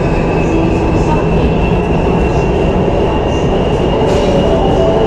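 Lahore Orange Line electric metro train running: a steady rumble with a thin high whine that slowly rises in pitch.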